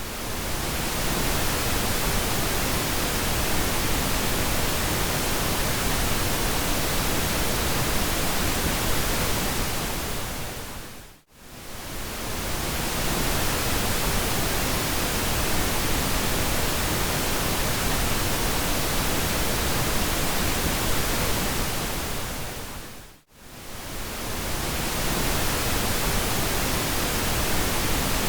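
Steady pink noise, an even hiss that is fuller in the low end. It fades out to near silence and straight back in twice, about twelve seconds apart.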